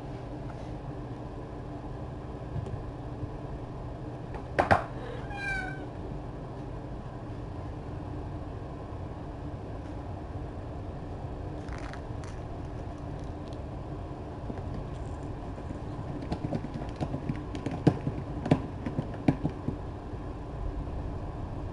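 A cat meows once, about five seconds in, right after a sharp knock. A few light clicks and taps follow near the end, over a steady low hum.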